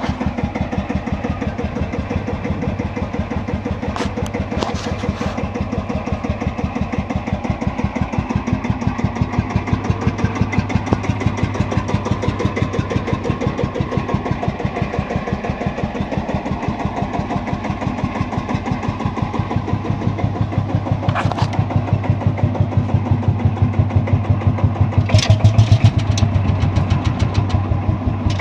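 1948 Field Marshall Series 2 tractor's single-cylinder two-stroke diesel running steadily with an even, rapid beat, in good running order. It gets somewhat louder near the end, with a few brief sharp clicks along the way.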